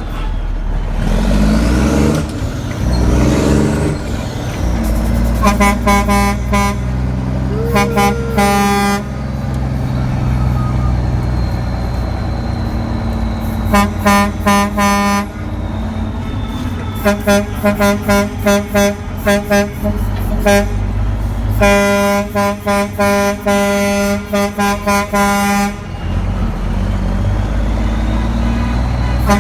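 Dump truck's horn honked in four volleys of rapid short toots at one steady pitch. The truck's engine runs underneath.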